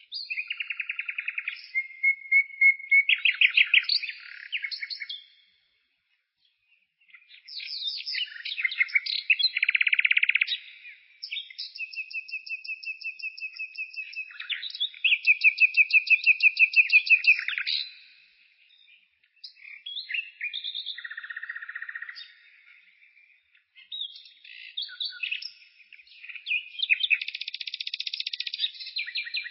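A songbird singing long, varied phrases of trills, rapid repeated notes and whistled notes, broken by short pauses.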